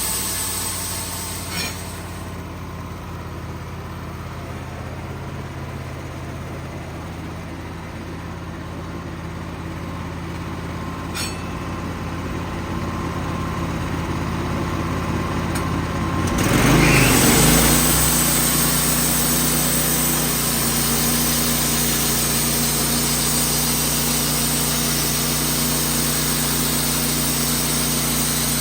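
Wood-Mizer band sawmill's engine running at a low idle, with a couple of faint clicks, then throttled up a little over halfway through and running steadily at speed.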